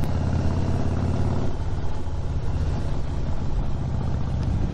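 Harley-Davidson V-twin motorcycle engine running as the bike is ridden along a road, with wind noise; the engine note changes about a second and a half in.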